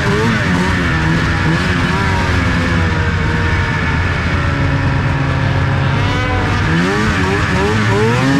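Vehicle engine running steadily, with a whining tone that rises and falls in pitch again and again, most busily near the start and toward the end.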